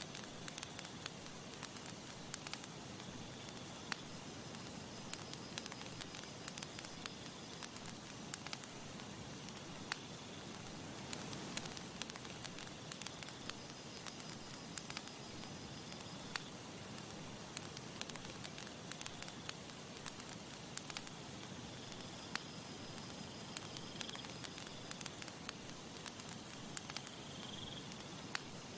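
Campfire burning, with frequent sharp crackles and pops at irregular intervals over a steady hiss.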